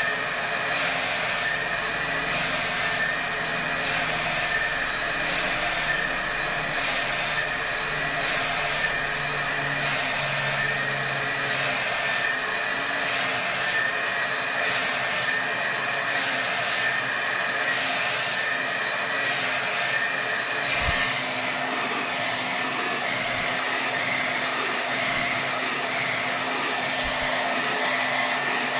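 Hair dryer blowing at full power: a steady rushing hiss with a high whine. For the first two thirds the hiss pulses gently about once a second, then it settles to an even sound.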